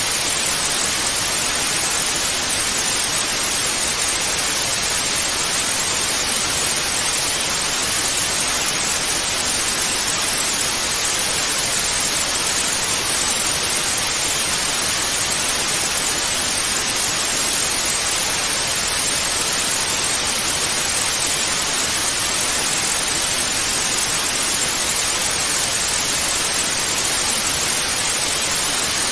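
Television static: a steady, unbroken hiss of white noise, strongest in the upper middle range and unchanging in level.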